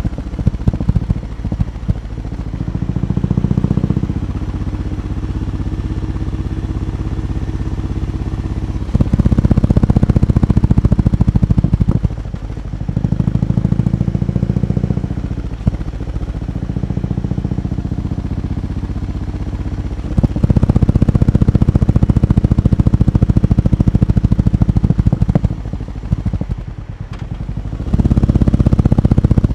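BMW R18 B's 1802 cc boxer twin running through its exhaust, mostly at a lumpy idle, with several stretches of a few seconds where it is revved louder.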